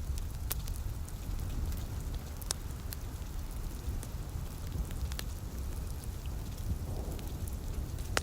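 Steady rain with a wood fire crackling, a few sharp pops standing out over a low rumble. Near the end a distant thunder roll begins to swell.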